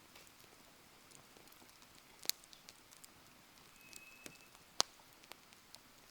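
Wood fire crackling: scattered sharp pops over a faint hiss, the loudest about two seconds in and again near five seconds, with a brief thin high whistle around four seconds.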